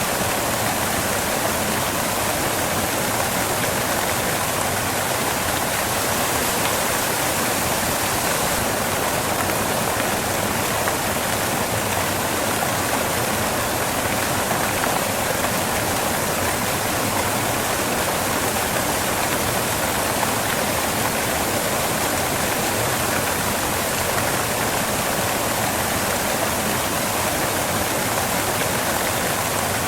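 Waterfall rushing: a steady, unbroken roar of falling water, even and continuous with no distinct splashes or changes.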